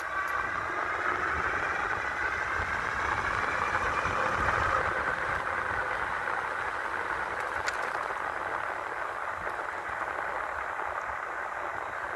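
A 5000-watt electric bike running at speed: its motor's whine rises in pitch over the first couple of seconds, then holds steady over a low rush of wind and road rumble.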